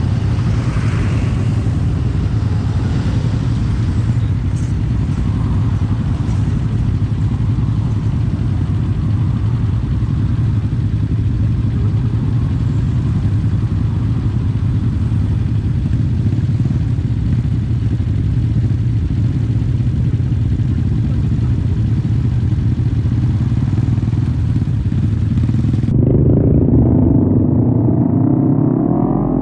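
Kawasaki Z250 parallel-twin engine running through a SeaPro aftermarket muffler while cruising, a steady exhaust note. Its pitch climbs near the end as the bike accelerates.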